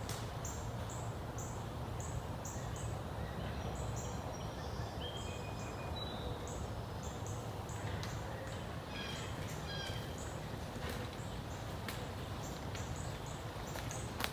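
Birds chirping: short high notes repeated every half second or so, with a couple of brief song phrases in the middle, over a steady low background rumble.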